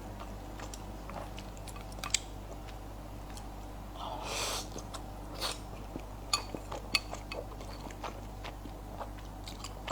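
Close-up eating sounds: wet chewing and mouth smacks with scattered small clicks, and one longer noisy sound about four seconds in.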